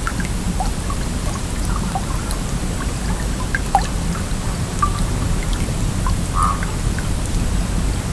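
Flowing stream: a steady low rush of water with many small plinks and drips scattered through it, one a little louder near the middle.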